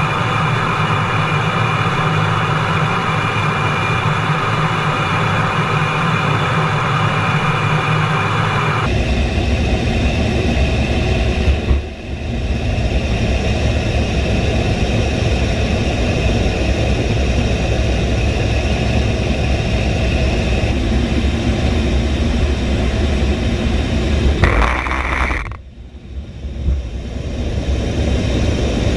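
Jet engines running steadily with a high whine over a low rumble, typical of the A-10 Warthog's twin turbofans, in several clips cut together; the sound changes abruptly about 9 s, 12 s and 25 s in.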